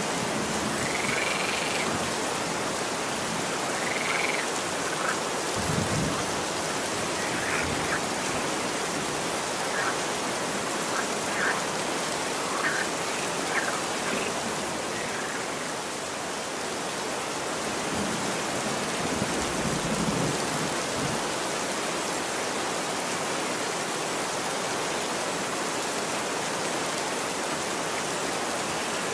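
Steady rain falling on a street, an even hiss throughout. A scattering of short, high-pitched calls sounds over it in the first half.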